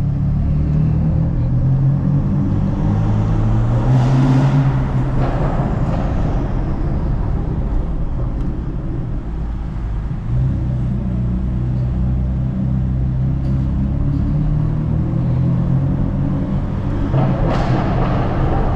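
BMW F82 M4's twin-turbo inline-six running while the car drives along, with steady engine drone and road rumble. The engine note rises about four seconds in, eases off briefly around ten seconds in, then settles again.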